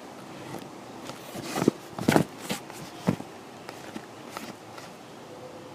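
Handling noise close to the microphone: a cluster of sharp knocks and scrapes, loudest about two seconds in, with a last knock about a second later.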